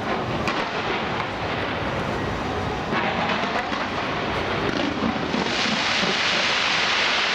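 Fireworks display: a continuous rumble of bursts with a few sharper bangs, and a dense crackling hiss that builds about five and a half seconds in.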